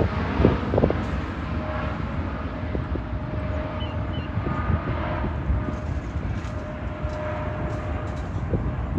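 Boeing 777 freighter's twin jet engines in a steady, low rumble as the aircraft climbs away after takeoff, with a few sharp knocks in the first second.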